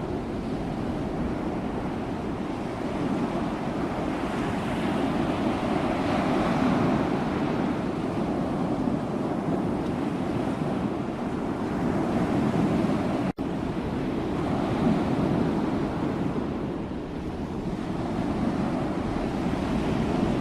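Sea waves breaking and washing ashore: continuous surf noise that swells and eases every few seconds, with a split-second dropout about two-thirds of the way through.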